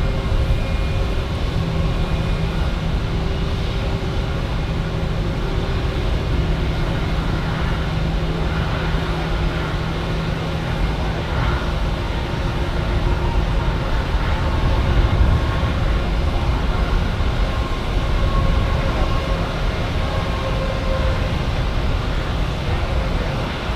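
Jet airliner engines running with a steady, heavy rumble and several held humming tones over it.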